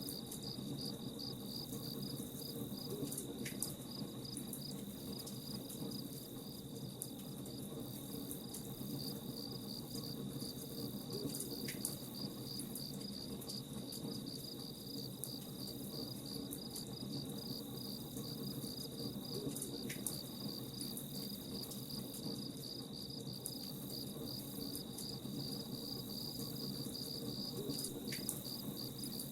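Crickets chirping in a steady, rapid pulsing trill, over the soft crackle of a campfire. A faint short high note recurs about every eight seconds.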